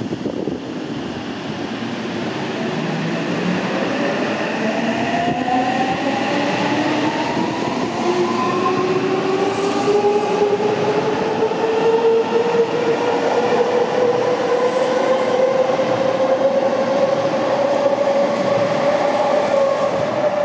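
Seibu 6000 series electric commuter train pulling out of a station and accelerating: the traction motor whine rises steadily in pitch, several tones at once, over a growing rumble of wheels on rail, and begins to level off near the end.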